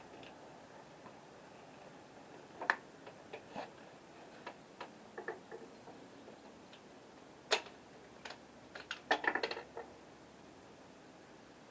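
Scattered light clicks and knocks, with a quick run of clicks about nine seconds in.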